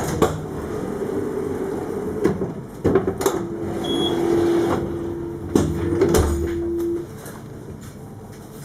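Inside an Alstom Citadis 402 tram: mechanical knocks and clunks over a low rumble. A steady hum starts about three seconds in and cuts off suddenly near the seven-second mark.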